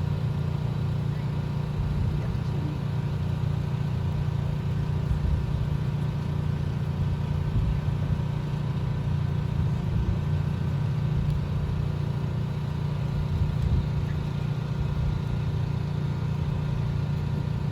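An engine idling steadily with an even low hum that does not change.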